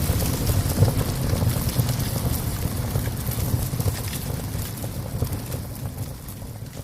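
Wood fire crackling in a small stove, with frequent sharp pops and snaps over a low rumbling burn, slowly fading out over the last few seconds.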